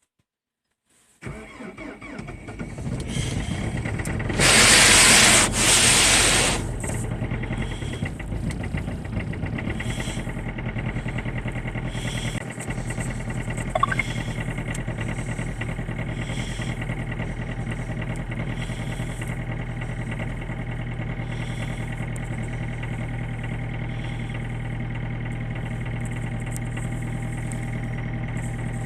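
Renault Scenic 2's 1.5 dCi (K9K) four-cylinder turbodiesel cold-starting in hard frost (about −23°C): it catches a little over a second in and settles into a steady idle. A few seconds after it starts, a loud hissing noise rises over the engine for about two seconds.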